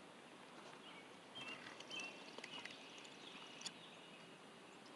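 Near silence: faint outdoor lakeside ambience, with a few short faint high chirps in the first half and a single sharp click near the end.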